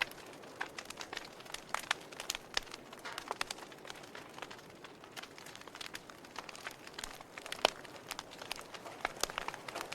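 Wood campfire crackling: irregular sharp pops and snaps over a soft hiss of burning, with one louder pop about three-quarters of the way through.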